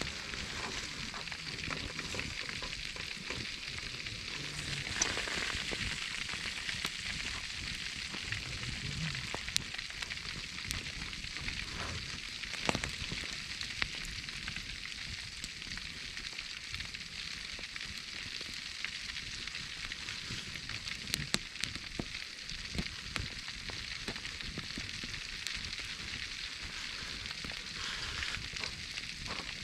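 Foil-wrapped whole pork belly sizzling in a wood fire: a steady hiss with many scattered sharp pops and crackles.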